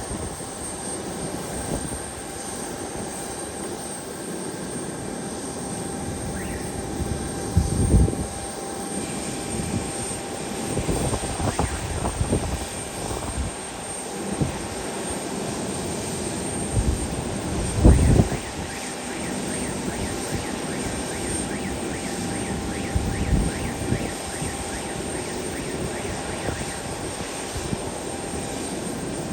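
Airplane engines running steadily, with a drone and a faint steady whine, and a few loud low bumps about 8 and 18 seconds in.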